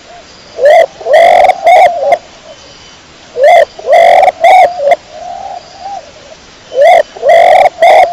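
Domestic pigeon cooing loudly in three phrases about three seconds apart, each a short rising note, a longer coo and a short closing note, with fainter coos in between.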